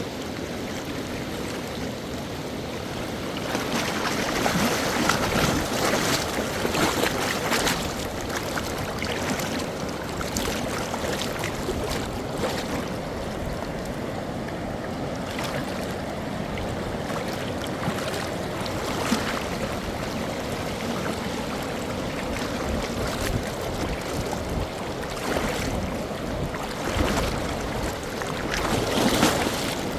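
Mountain stream or river rushing steadily, with several louder surges of water.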